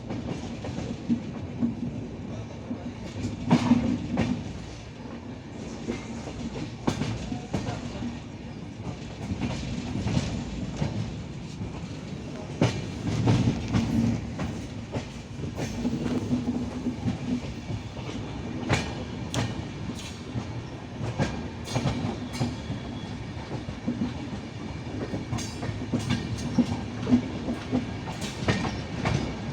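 Train running on the rails: a steady rumble with wheels clicking and knocking over the rail joints at irregular intervals.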